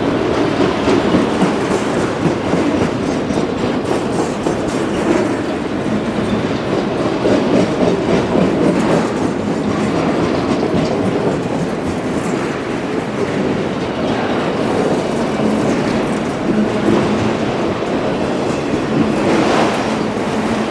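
Freight train of empty autorack cars rolling past at steady speed, its wheels clacking over the rail joints with continuous rumble and rattle.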